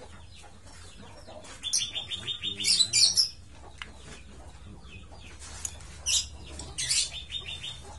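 A small bird chirping in short runs of quick, high notes: one about two seconds in, another near three seconds, and two more around six and seven seconds.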